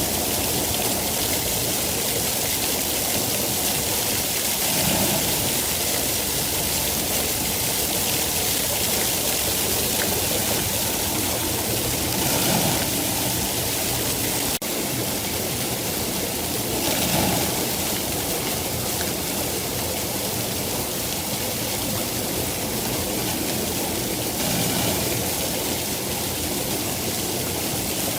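Steady heavy rainfall, a dense even hiss with a few slight swells, and a brief dip about fourteen and a half seconds in.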